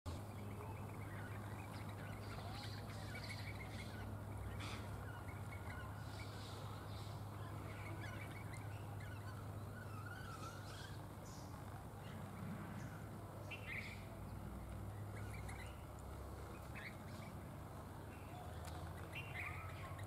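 Small birds chirping: short calls scattered every few seconds, over a steady low hum.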